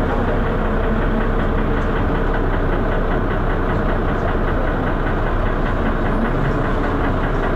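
Diesel engine of a Dennis Arrow double-decker bus running with a steady, rhythmic knock.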